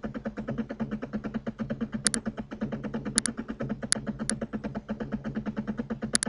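Computer mouse clicks, several of them quick double-clicks, over a steady, fast-pulsing electrical hum.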